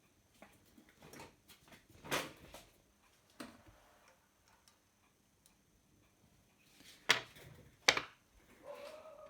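Scattered light clicks and taps from small parts and tools being handled at a workbench, the two sharpest about seven and eight seconds in.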